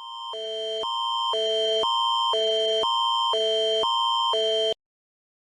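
Canadian Alert Ready attention signal: two high chords alternating every half second over one steady high tone. It fades up at the start and cuts off abruptly after about four and a half seconds.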